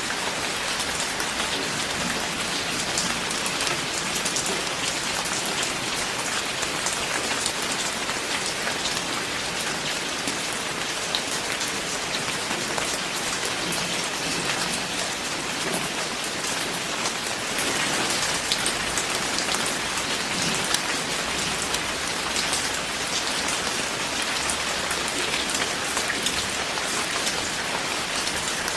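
Steady rain falling, a dense even hiss of countless drops striking a surface, swelling slightly for a moment about two-thirds of the way through.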